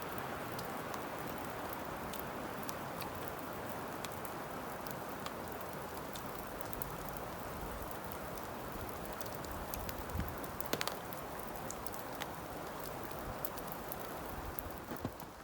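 Heavy wet sleet, close to rain, falling steadily: an even hiss dotted with scattered drop ticks, with a couple of brief soft knocks about ten seconds in.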